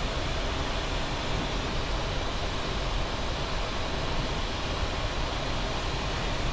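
Steady rushing noise on a Boeing 737 MAX 8 flight deck in flight, the airflow and air-conditioning noise of the cockpit, with a low rumble underneath.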